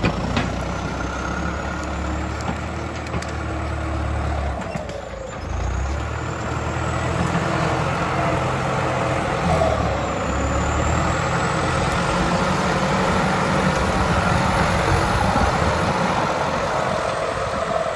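Diesel engine of a John Deere 76-horsepower farm tractor running steadily, dipping briefly about five seconds in and then running on a little louder.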